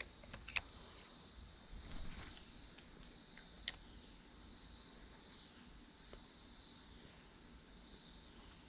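Insect chorus: a steady, high-pitched buzz running without a break. Two sharp clicks stand out, one about half a second in and one a few seconds later.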